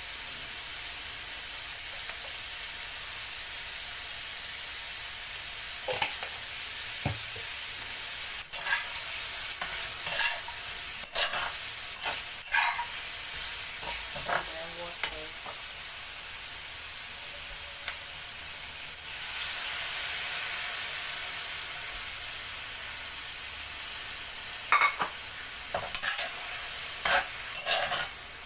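Bell pepper, black fungus and pork stir fry sizzling in a stainless steel wok, with scattered clinks and scrapes of a metal spatula and utensils. The sizzle grows louder for a few seconds about two-thirds of the way through.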